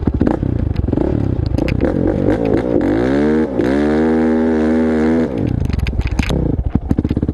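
Dirt bike engine running at a rough, uneven idle, revved up about two seconds in, dipping and rising again, then held steady for a second or so before dropping back to a rough idle.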